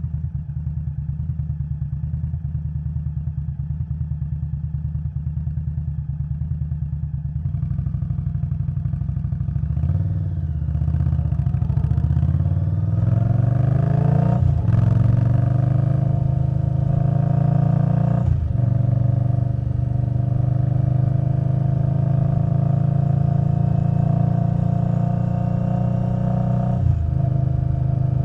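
Indian Scout Bobber's V-twin through Vance & Hines Twin Slash pipes, running steadily at low revs. From about ten seconds in it accelerates, rising in pitch and dropping back at each upshift, around three times.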